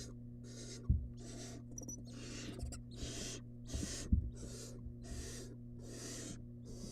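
Barn owl nestlings giving rasping begging hisses, about two a second in a steady rhythm. A few dull knocks, the loudest about a second in and near four seconds, come from movement in the wooden nest box, over a steady electrical hum.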